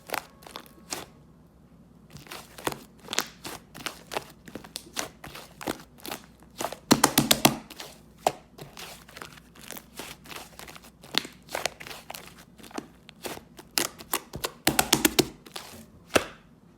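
Clay-mixed slime being pressed and worked by hand, giving a steady series of sharp clicks and pops, with two quick runs of dense crackling pops, about seven seconds in and near the end.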